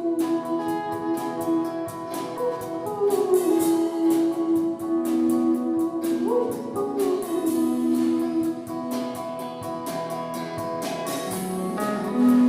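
A live band playing an instrumental passage: strummed guitar keeps a steady rhythm while a lead line holds long notes, several of them sliding up into pitch.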